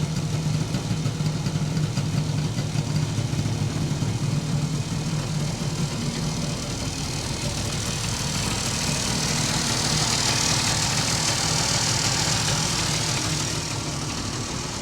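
Saab three-cylinder two-stroke engine idling steadily after a cold start. A hissing noise swells in the middle and fades near the end.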